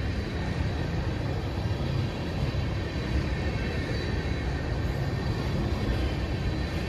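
Freight train rolling past: a steady rumble of railcar wheels on the rails.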